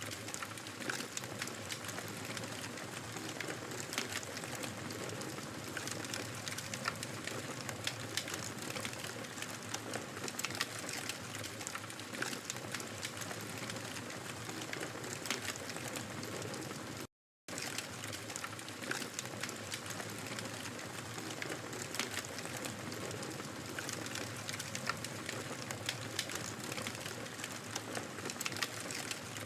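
Wood fire crackling steadily in a fireplace: a soft hiss of flames with dense, irregular pops and snaps. The sound cuts out completely for a fraction of a second about two-thirds of the way through.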